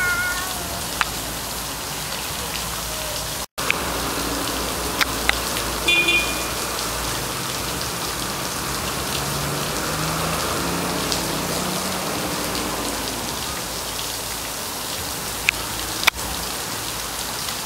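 Steady rain falling, with a few sharp clicks scattered through it and a momentary dropout about three and a half seconds in.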